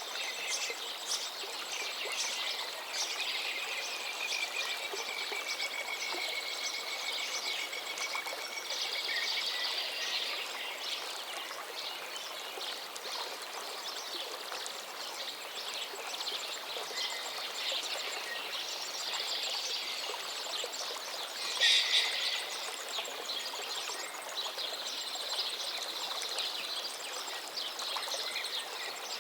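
A river flowing steadily, with several birds chirping and singing over it. One bird holds a long, even trill for several seconds in the first third, and a louder call stands out about three quarters of the way through.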